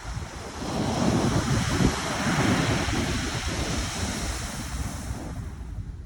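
Pacific Ocean surf: a wave breaks and rushes up the shore, swelling about a second in and fading away near the end. Wind buffets the microphone.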